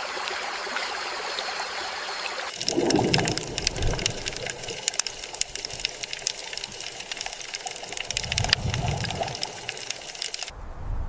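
Running water: a steady hiss that changes abruptly about two and a half seconds in to closer splashing with many sharp clicks and drips, cut off suddenly near the end.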